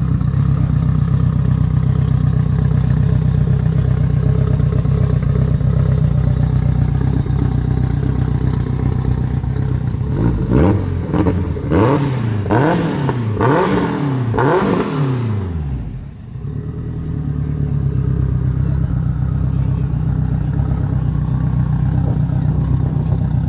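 Honda Civic hatchback race engine idling steadily, then revved in about five quick blips, each rising and falling in pitch, around ten seconds in, before it settles back to idle.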